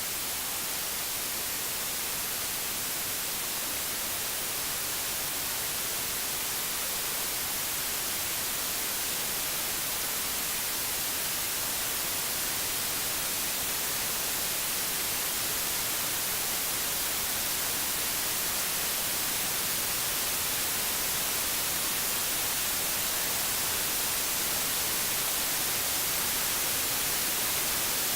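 Steady white noise: a continuous, even hiss, strongest in the high end, growing slightly louder over the stretch.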